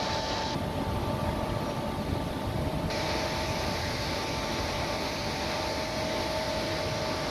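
A heavy vehicle's engine running steadily with a constant low rumble and a steady whine.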